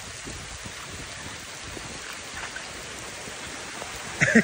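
Heavy rain falling steadily: an even hiss of a downpour on pavement and leaves.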